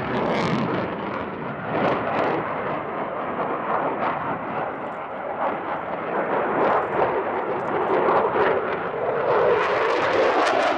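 Eurofighter Typhoon's twin EJ200 turbofan engines heard in flight, a broad jet roar that grows louder over the last few seconds.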